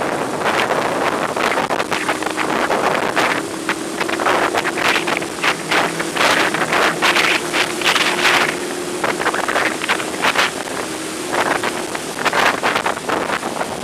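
Wind buffeting the bare built-in microphone of an Akaso Brave 7 LE action camera in irregular gusts, over a steady rain-like hiss and a faint steady hum.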